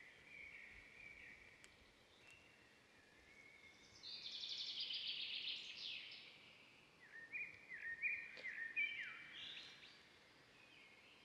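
Songbirds singing quietly outdoors, with a fast trill that falls in pitch about four seconds in and a run of quick, stepped chirping phrases a few seconds later.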